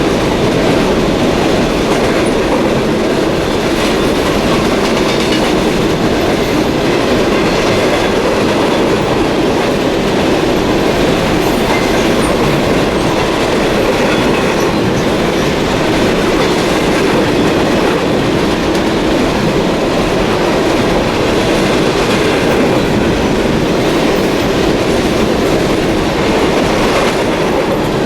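Freight train cars rolling past close by: a steady, loud rumble of wheels on the rails with clickety-clack over the rail joints, unchanging throughout.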